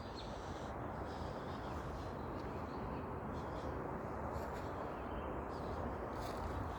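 Steady low outdoor background noise with a few faint, scattered rustles or crackles.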